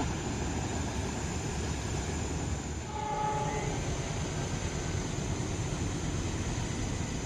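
Indonesian passenger train hauled by a diesel locomotive, running with a steady low rumble. A brief horn note sounds about three seconds in.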